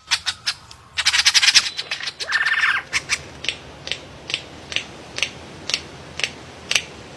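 A bird calling in short, sharp squawks: a rapid chattering burst about a second in, then a run of single sharp calls about two a second.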